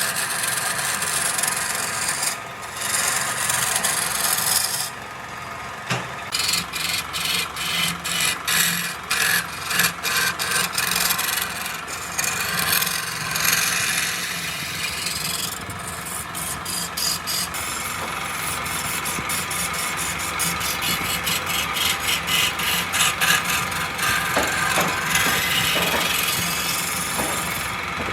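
A turning tool scraping and cutting a spinning wooden workpiece on a wood lathe, a continuous rasping noise with stretches of rapid, regular strokes.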